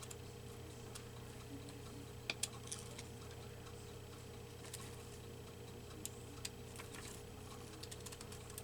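Scissors cutting paper: faint, irregular snips while a circle is cut out, with a couple of sharper snips about two and a half seconds in and a quick run of small snips near the end. A steady low hum sits underneath.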